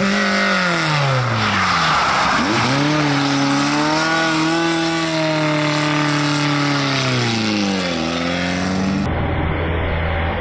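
Rally car engine: the revs drop off over the first couple of seconds, climb again and hold for several seconds, then fall away around eight seconds. Just after nine seconds the sound cuts abruptly to a lower, steady engine drone.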